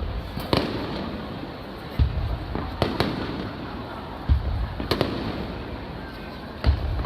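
Aerial fireworks shells bursting overhead: about six sharp bangs and deeper booms at uneven intervals, each followed by a rumbling tail.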